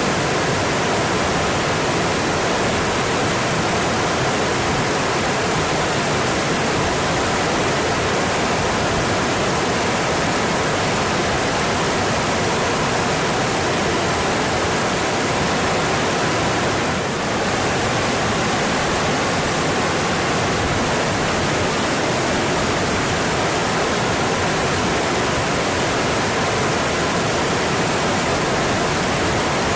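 Mountain stream rushing steadily over its rocky bed, a constant full hiss of water, with one brief slight dip in level a little past the middle.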